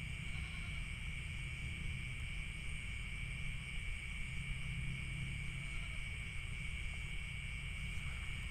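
Crickets or similar night insects chirring in a steady, unbroken high drone, over a constant low rumble.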